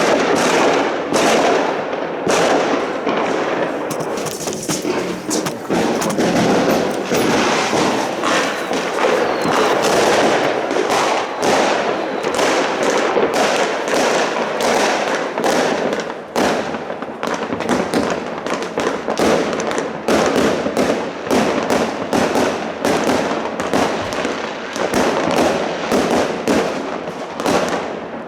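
New Year's fireworks and firecrackers going off nonstop: a dense, irregular string of sharp bangs and crackles layered over the continuous rumble of many explosions at once.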